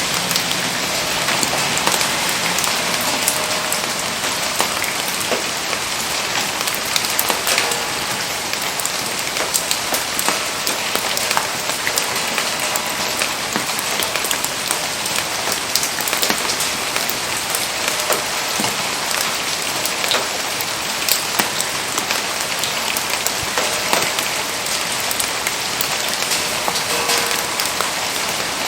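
Steady rain falling, with a dense hiss and many sharp ticks of drops hitting close surfaces.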